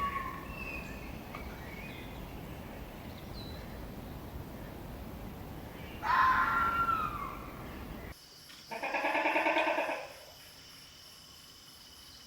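Animal calls: a short falling cry at the start and another about six seconds in, then, after an abrupt change of background, a longer wavering call over a steady high insect chirring.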